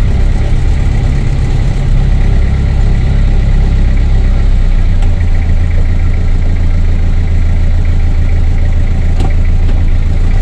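A vehicle's engine running with road rumble, heard from inside the cabin while driving slowly; the low drone shifts about four and a half seconds in. A single sharp click comes about nine seconds in.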